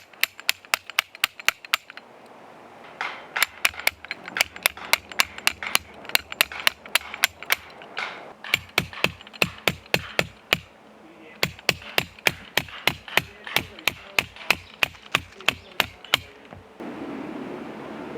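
A hammer driving tent pegs into the ground: runs of quick, regular strikes, about five a second, with short pauses between the runs. Near the end the strikes stop and a steady rushing noise follows.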